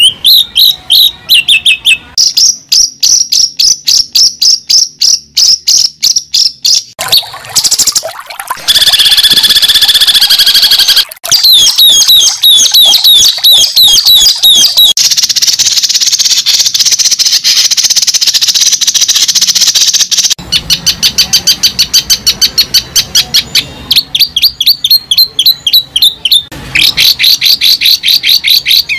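Bird song: fast runs of high, rapidly repeated chirps and trills, broken by a few longer stretches of continuous warbling.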